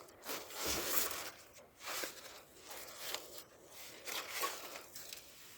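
Irregular rustling and scraping from a person moving about and handling things, in short uneven strokes with no steady sound behind them.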